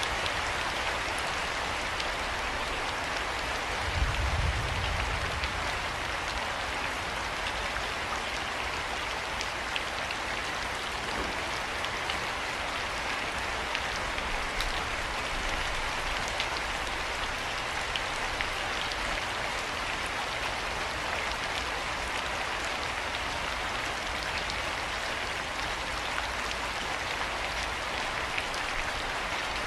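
Steady rain falling, with many individual drops ticking sharply through it. A brief low thump about four seconds in.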